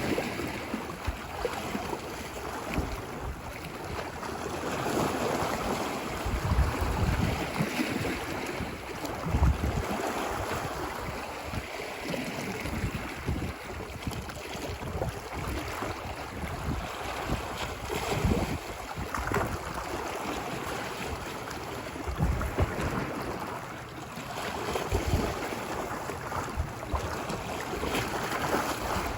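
Ocean surf washing ashore on a beach, a continuous rushing wash that swells and ebbs, with wind buffeting the microphone in a few short low gusts.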